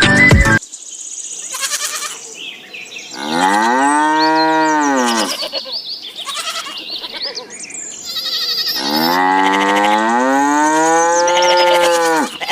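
A cow mooing: two long moos, the second one longer, each swelling and bending in pitch.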